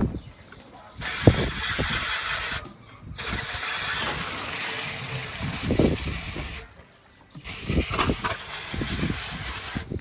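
Water spraying hard from a hose nozzle in three bursts, about a second and a half, three and a half and two and a half seconds long, with a few knocks as the spray hits the gear. This is washing down after processing.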